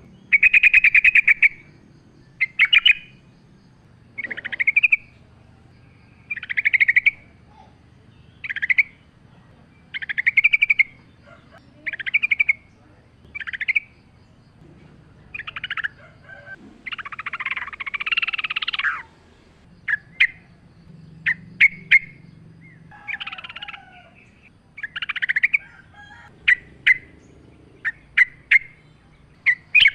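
Yellow-vented bulbul (trucuk) singing short, bubbly phrases, one every second or two. There is a longer, fuller phrase a little past the middle, and a run of quick sharp notes near the end.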